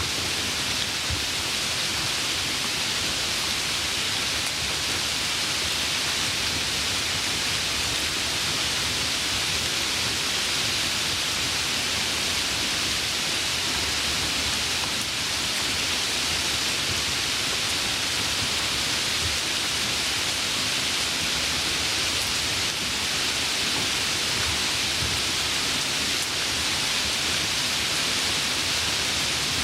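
Steady rainfall, an even unbroken hiss of rain with no individual drops or thunder standing out.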